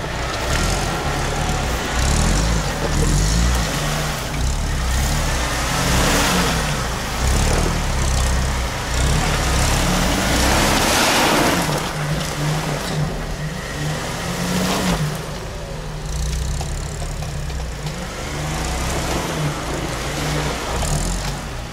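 Off-road SUV engines revving up and down as the cars struggle through deep mud with wheels spinning. About ten seconds in, a surge of louder engine and tyre noise comes as one passes close by.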